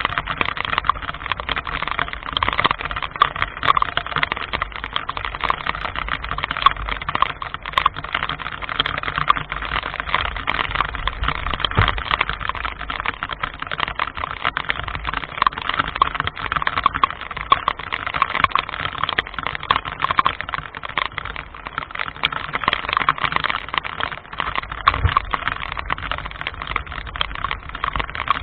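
Heavy rain pattering hard and fast on a surface close by, a dense steady crackle of countless small drops.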